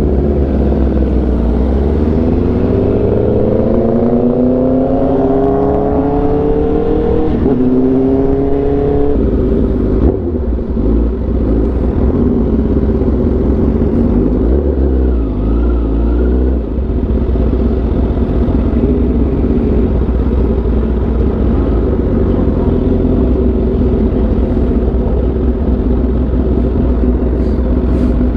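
Sportbike engine accelerating through the gears, its pitch climbing and dropping back at each shift over the first nine seconds or so, then running at a steady speed with a constant low rumble.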